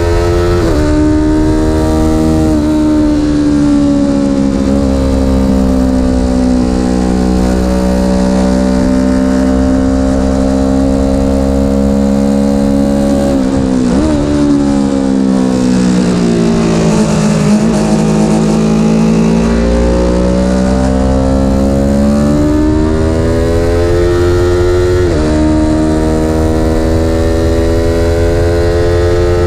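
Vehicle engine running hard on a lap, its pitch sliding and stepping with throttle and gear changes. About halfway through the pitch drops sharply, falls further, then climbs slowly back up, with more quick shifts near the end.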